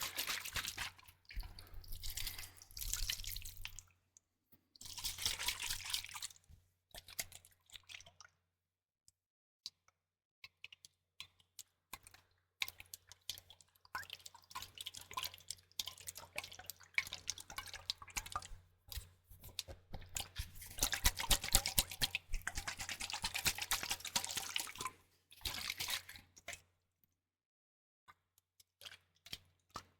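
Close-miked liquid sounds: liquid dripping and sloshing with fine crackling, in bouts of a few seconds broken by short pauses. The loudest bout comes a little past the middle.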